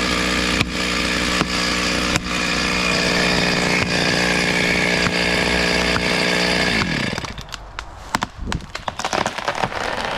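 Chainsaw running at full throttle, cutting. About seven seconds in, its engine pitch drops away as the throttle is released, and a quick run of sharp cracks and snaps follows.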